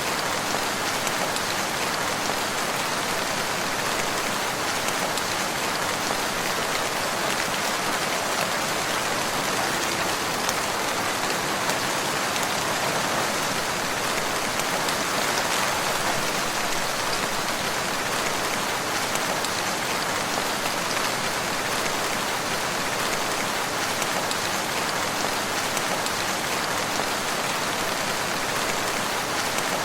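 Steady rain falling: an even, unbroken hiss of dense raindrops with no change in strength.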